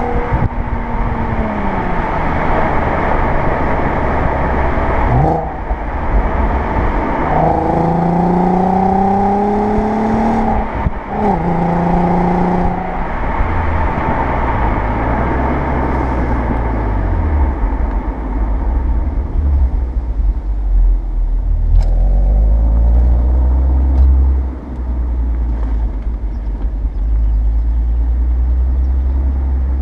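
Audi A3 8P 3.2 quattro's VR6 engine through its stock exhaust, pulling with its pitch climbing and breaking off sharply twice in the first half. It then runs at lower revs, a steadier drone rising and falling gently.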